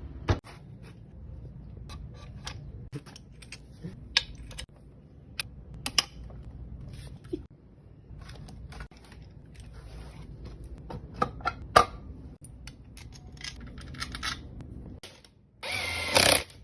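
Hand tools and small metal parts clicking, tapping and clinking during work on a motorcycle engine, in scattered strikes. Near the end, a power tool whirs loudly for under a second.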